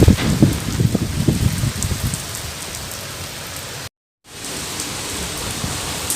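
Steady rain, with heavy drops landing close by as dull low thuds in the first couple of seconds. The sound cuts out completely for a moment about four seconds in, then steady rain hiss resumes.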